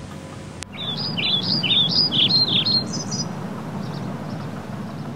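Bird song: a run of about ten quick chirping notes, each falling in pitch, starting abruptly with a click about half a second in and stopping after about three seconds. A steady outdoor hiss runs underneath.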